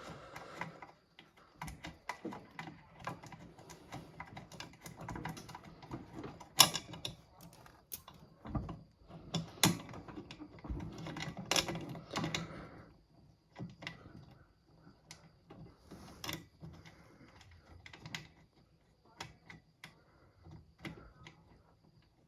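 Irregular clicks and light metallic knocks of hands and tools working on snowmobile parts, with a few louder knocks in the middle stretch.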